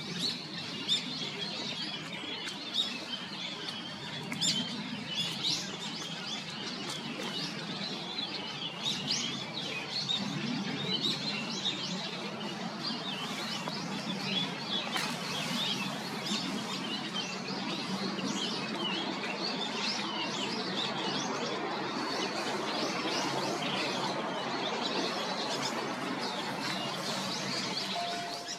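A flock of birds calling: many short, overlapping chirps, with a steady low hum underneath.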